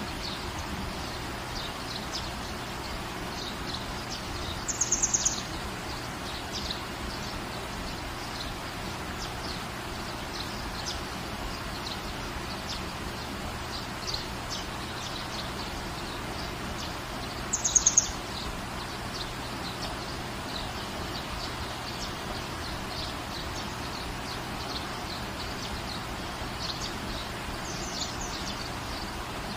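Steady rain falling in a garden, with birds chirping through it. Twice, about five and eighteen seconds in, a bird gives a quick run of high chirps that stands out above the rain, and faint short chirps are scattered throughout.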